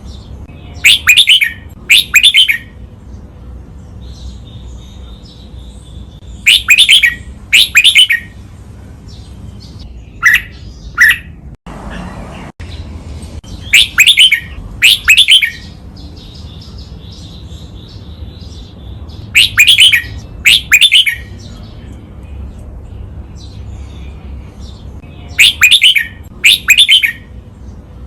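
Red-whiskered bulbul singing a doubled song: loud calls come in pairs about a second apart, with each pair repeated every five to six seconds. Fainter chirping fills the gaps between the pairs.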